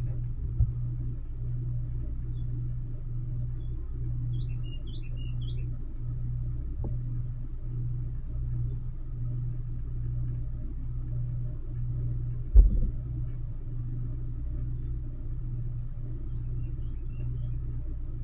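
A steady low rumble, like a motor or distant traffic, runs throughout. A northern cardinal gives a quick run of high, descending chirped notes about four seconds in, and fainter ones near the end. A single sharp knock comes about two-thirds of the way through.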